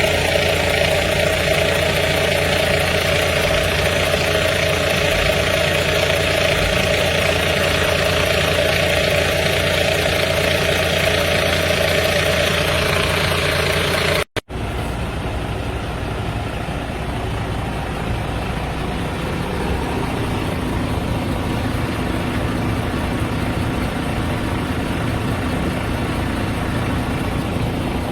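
Iveco S-Way 530 tractor unit's 530 hp diesel engine idling steadily. The sound cuts out for a moment about halfway through, then goes on a little quieter and duller.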